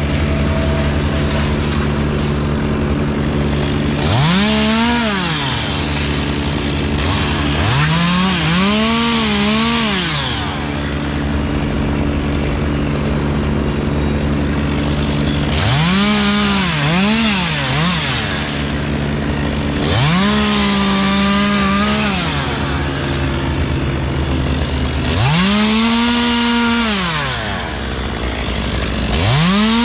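Chainsaw revved up to full speed and back down about six times, each burst lasting two to three seconds, over a steady low engine hum.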